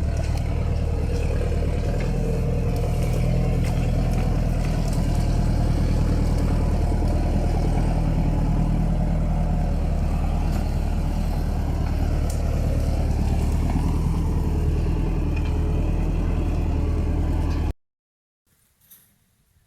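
A vehicle engine running steadily at an even, low pitch, cutting off abruptly near the end.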